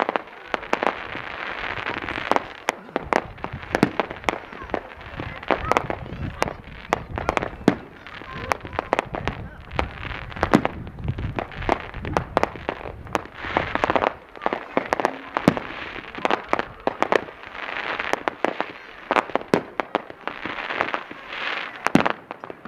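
Fireworks display: a rapid, irregular barrage of sharp bangs from exploding aerial shells, with voices of onlookers underneath.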